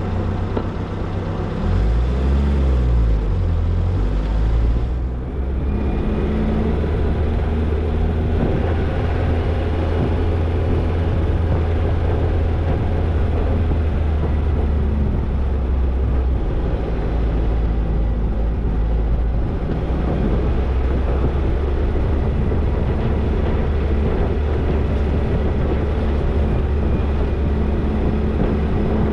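Toyota Tercel 4WD wagon driving, its engine running steadily. About two seconds in, the engine pitch briefly rises and falls.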